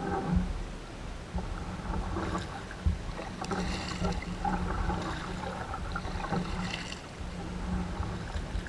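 Kayak paddling on a river: irregular water splashes from the paddle strokes, strongest in the middle of the stretch, over a steady low rumble of wind on the microphone.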